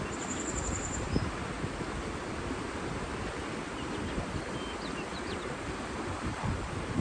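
Steady rushing of water with wind, overlaid by a few faint, short bird chirps around the middle and a brief high-pitched trill in the first second.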